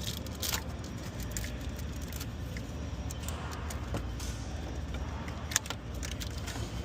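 Scattered light clicks and metallic rattles of parts and tools being handled, with one sharper click about five and a half seconds in, over a steady low hum.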